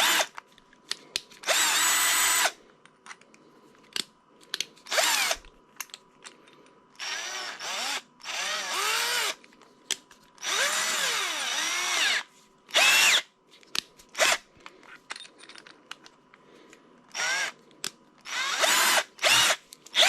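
GoGonova 12V cordless drill-driver running in a series of short trigger bursts, its motor whine rising and falling in pitch as the speed changes, with small clicks between bursts.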